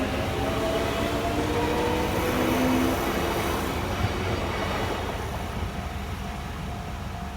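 A Kintetsu Minami-Osaka Line electric train passing over a level crossing. The wheel and running noise builds and peaks two to three seconds in, then fades, while the traction motors' whine slowly falls in pitch. Toward the end a steady, repeating crossing-alarm tone is left.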